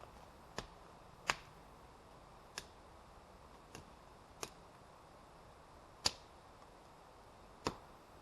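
Seven short, sharp clicks or snaps at uneven intervals over a faint steady hiss.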